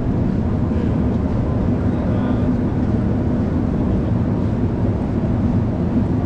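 Busy city street ambience: a steady rumble of traffic with a low, even hum underneath and faint voices of passers-by.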